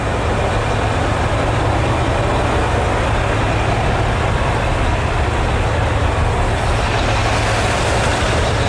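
Heavy diesel truck engine idling steadily, a constant low hum.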